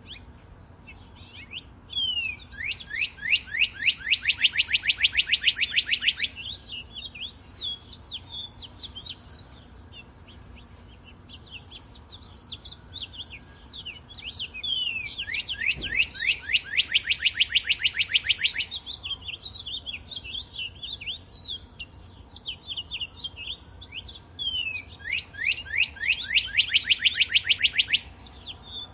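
Songbird singing: three long, fast trills of rapidly repeated high notes, each lasting a few seconds, with scattered short chirps between them.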